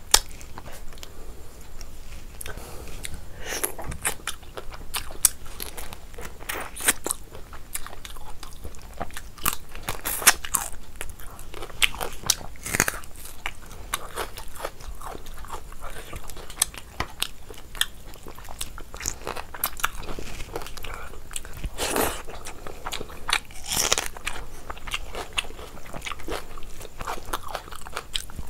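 Close-up eating sounds: a person chewing rice and prawn curry while her fingers mix rice and curry on a plate, heard as many short, irregular wet clicks.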